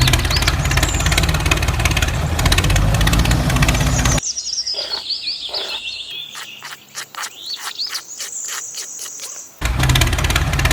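An engine running for about four seconds cuts out, leaving a stretch of high bird chirps over faint insect-like ticking. About a second before the end, an engine starts up again abruptly.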